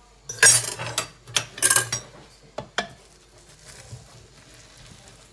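Metal utensils clattering and scraping against dishes for about two seconds, then two short clinks about three seconds in.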